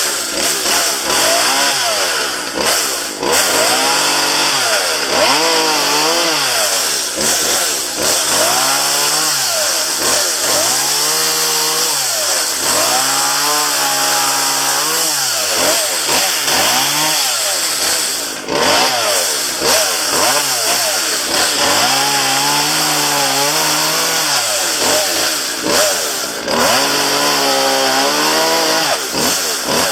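Gas chainsaw running, its engine pitch rising and falling again every second or two as the throttle is worked while cutting up downed branches.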